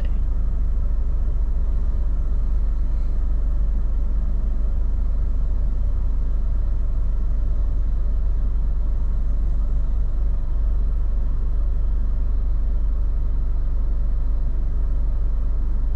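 2004 Honda Accord idling in place, heard from inside its cabin as a steady low rumble.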